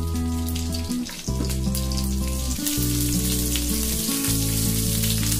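Chopped garlic and ghee sizzling in hot oil in a frying pan, stirred with a spatula near the end. Background music of long held low notes plays throughout.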